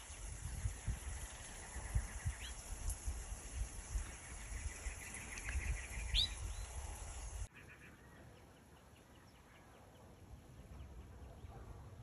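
Wild birds calling: a few short chirps and a quick trill over a low rumbling noise. About seven and a half seconds in, the rumble cuts off abruptly, leaving a quieter background with faint, rapidly repeated chirps.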